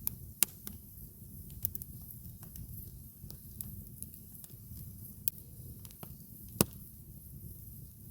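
Campfire crackling: burning wood giving irregular sharp snaps and pops, the loudest about half a second in, again near one and a half seconds, and near six and a half seconds, over a steady low rumble.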